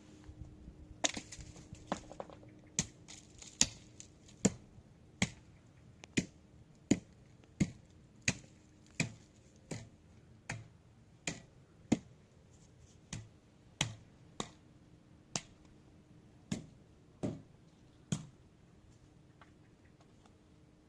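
Sharp, evenly spaced knocks, a little more than one a second, that stop near the end, over a faint steady hum.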